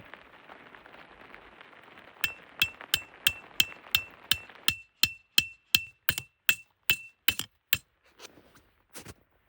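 A hammer driving a metal tent stake, a steady run of sharp blows at about three a second, each with a bright metallic ring. It starts about two seconds in and tapers to a few softer hits near the end.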